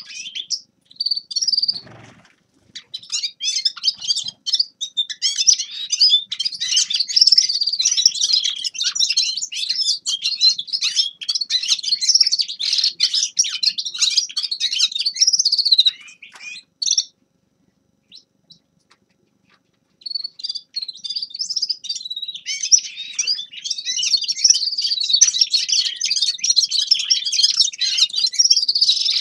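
A finch singing a fast, continuous, high-pitched twittering song. It breaks off for about three seconds past the middle, then starts again.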